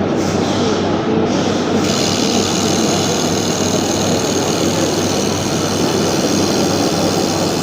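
Steady running noise of a laser welding machine and its cooling unit, with a constant low electrical hum. A higher hiss joins within the first two seconds and carries on.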